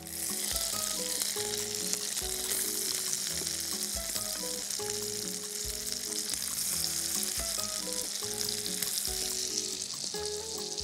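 Thin pear slices sizzling steadily in hot melted butter in a frying pan as they begin to caramelize; the sizzle starts suddenly as they go in.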